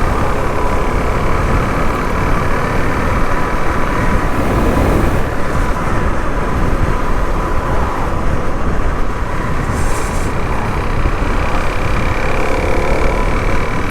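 Suzuki DR-Z400SM's single-cylinder engine running steadily while under way, with heavy wind noise.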